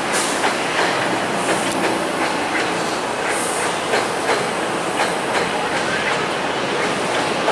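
Passenger train running past at speed, its wheels clacking over rail joints in a steady, even clickety-clack over continuous rolling noise.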